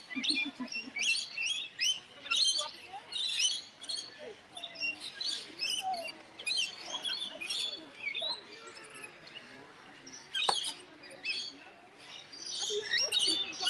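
A flock of lorikeets chattering with many quick, high calls. The calls thin out past the middle and pick up again near the end, with a single sharp click about ten seconds in.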